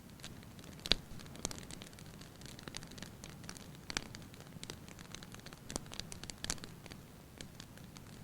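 Wood fire burning in a fireplace hearth, crackling with irregular sharp pops over a low steady hiss of the flames; the loudest pop comes about a second in.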